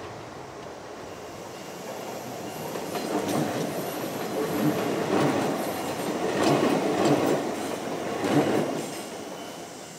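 Izuhakone Railway Sunzu Line electric train passing, its wheels clacking over rail joints. The rumble grows louder, peaks with a run of sharp clacks, then fades near the end.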